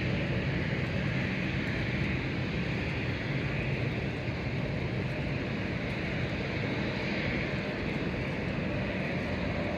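Jet airliner engines heard at a distance, a steady, even noise with a low rumble and a hiss above it.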